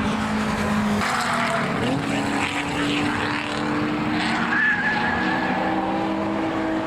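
Historic saloon racing cars' engines running hard as they pass, the pitch shifting and rising through the gears, with tyres squealing briefly near the middle.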